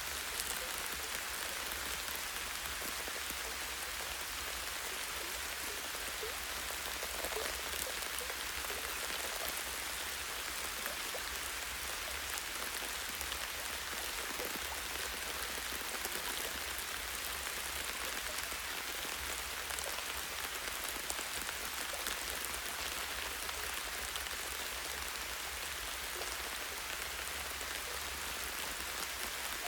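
Light rain falling steadily on forest trees, a constant patter with scattered individual drops ticking on leaves and a branch.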